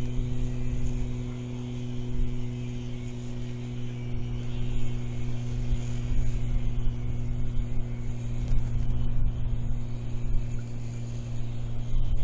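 A steady machine hum at one unchanging pitch, over an uneven low rumble of wind on the microphone.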